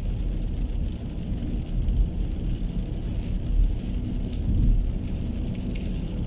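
Rain falling, with a steady low rumble underneath.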